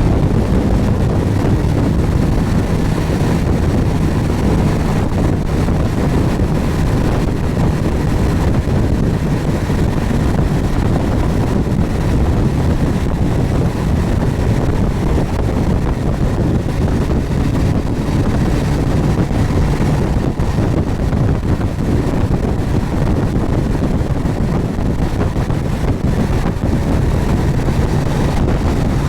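Wind rushing over the microphone of a moving Suzuki GSX1250FA motorcycle, with the bike's inline-four engine running steadily underneath.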